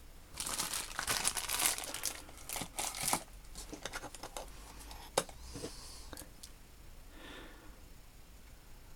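Crinkling, crackling rustle of wrapping being handled for about three seconds, then scattered small clicks and one sharp click about five seconds in.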